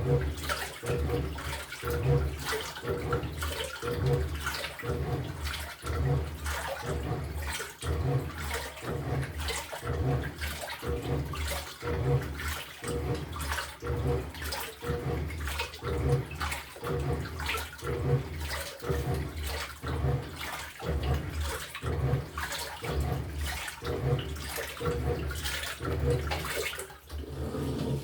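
LG top-load washing machine agitating: the pulsator churns the water in a regular rhythm of sloshing surges over a low motor hum. The agitation stops just before the end.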